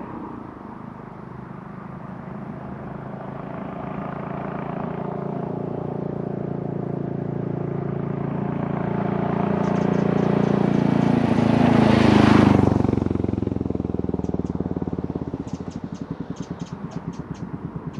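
Royal Enfield Classic 350's single-cylinder engine running at a steady speed. A louder rush of noise builds up to a peak about two-thirds of the way through and then fades. After it the engine's even pulse stands out, with a few light clicks near the end.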